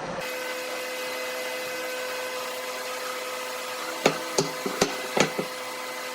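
Hammer tapping on wood five times in quick succession about four seconds in, over a steady hum.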